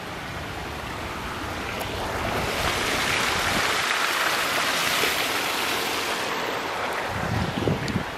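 A gust of wind rushing through the trees' leaves, swelling over a couple of seconds and dying away again, with a few footsteps near the end.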